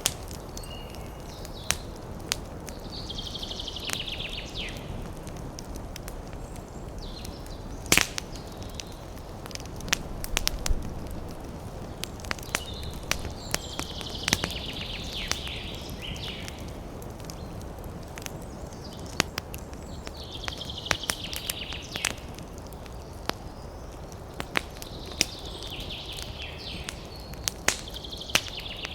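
Wood fire crackling: irregular sharp pops and snaps over a low, steady rumble, with one strong pop about eight seconds in. A high twittering sound comes and goes about four times, each lasting one to three seconds.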